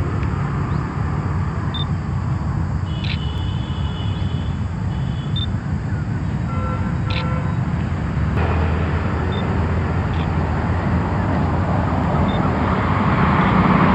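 Steady rumble of road traffic, growing louder toward the end as a vehicle approaches, with a few short high bird calls. Two sharp clicks, about three and seven seconds in.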